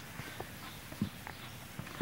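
A few faint footsteps and light knocks over a low background hiss, the clearest about a second in.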